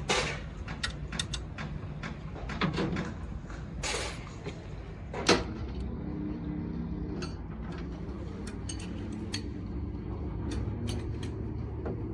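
Scattered clinks and knocks of metal tools and engine parts being handled, with one sharper knock about five seconds in, over a steady low hum.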